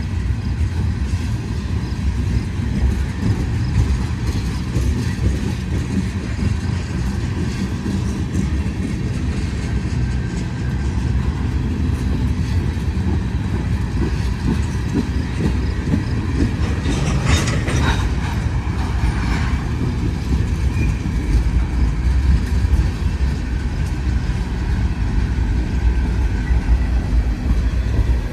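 Freight train of loaded ethanol tank cars rolling past, steel wheels clacking over the rail joints with a steady low rumble. About two-thirds of the way through there is a brief high squeal.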